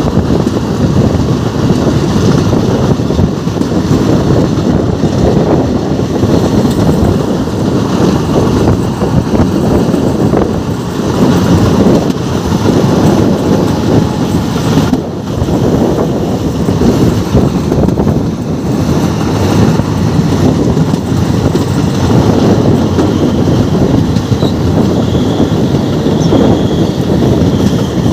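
Train running on the track, a steady heavy rumble with wind buffeting the microphone. A faint high squeal comes in near the end.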